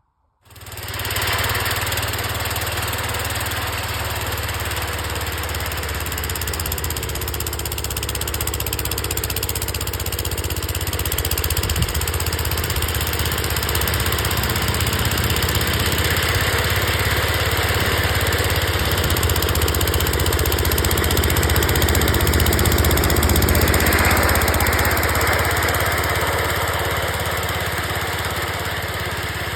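1974 Wheel Horse garden tractor's engine running steadily, growing a little louder past the middle and easing off near the end.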